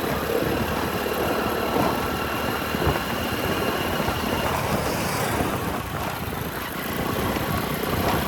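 Motorcycle ride through city traffic: a steady mix of the bike's engine and surrounding traffic and road noise.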